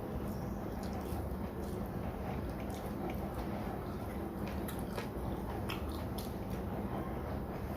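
Close-up eating sounds: soft chewing and small wet mouth clicks as someone eats rice with curry, scattered irregularly over a steady low background hum.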